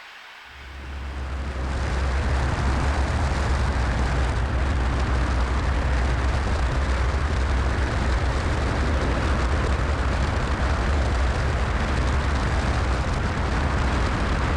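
Cessna 172SP engine drone and airflow noise inside the cockpit, coming in loud about a second in and then holding steady.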